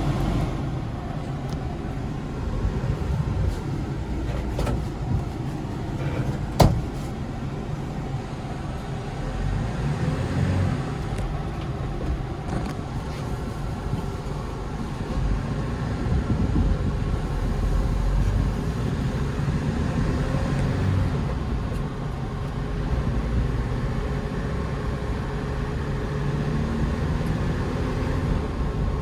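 Hyundai Porter II truck heard from inside the cab while driving: steady engine and road rumble, with one sharp click about six and a half seconds in.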